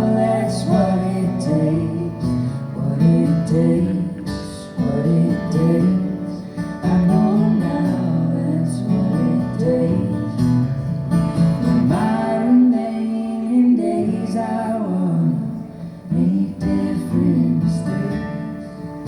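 Live band music: an instrumental passage led by guitar, with no singing, after the last sung line of the song.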